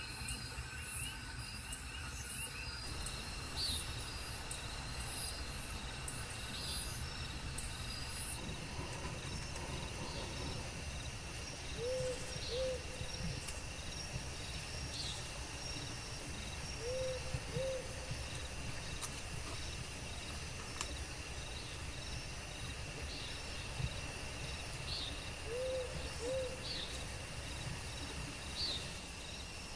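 Tropical forest insects and crickets chirping and droning steadily, with a bird giving short low double calls three times over the stretch.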